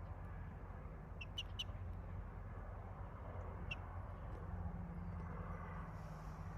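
A few very short, high chirps from a chicken, three in quick succession and one more a couple of seconds later, over a steady low hum.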